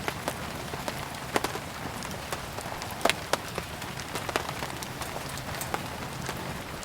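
Steady rain with irregular sharp crackles and pops of burning firewood.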